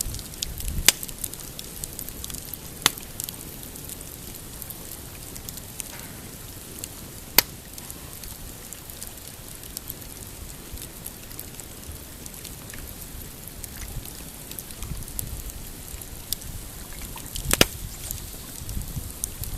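Pine campfire crackling with a steady scatter of small ticks and about four loud, sharp pops, while waves lap against a rocky shore with low splashes here and there.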